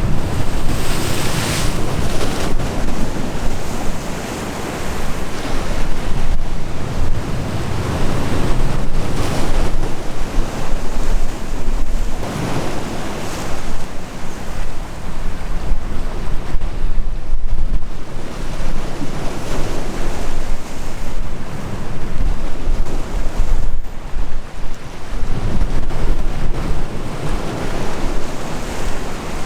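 Sea waves breaking and washing in repeated surges a few seconds apart, with wind buffeting the microphone.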